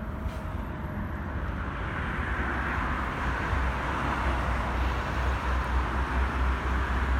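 Steady outdoor background noise: a low rumble with a hiss that swells slightly about two seconds in, like city traffic.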